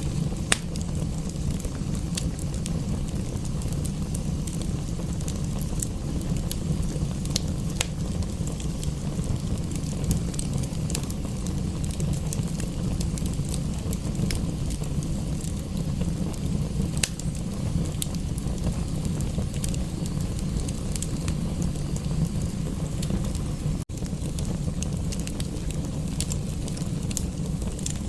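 Wood fire crackling, with irregular sharp pops and snaps over a steady low rumble. A split-second break in the sound comes about three quarters of the way through.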